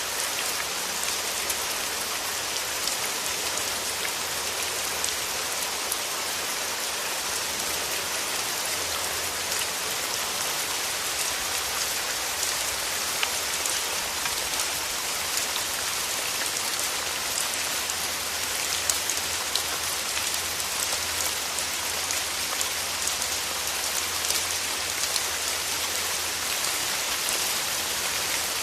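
Steady rain falling through trees, an even hiss with many small, sharp drop ticks scattered throughout.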